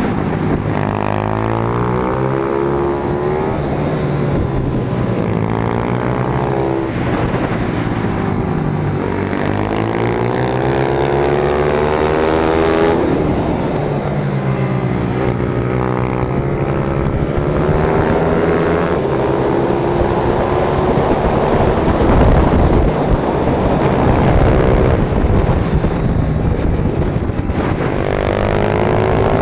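Pit bike's single-cylinder engine heard on board at a kart track, its pitch repeatedly rising under acceleration and dropping off into corners, several times in a row.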